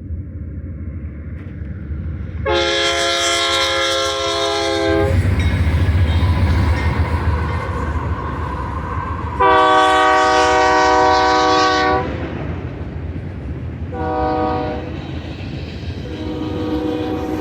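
Union Pacific GE C44ACM locomotive's air horn sounding two long blasts, a short one, then a fourth that begins near the end: the long-long-short-long grade-crossing signal. A steady low rumble of the approaching train runs underneath.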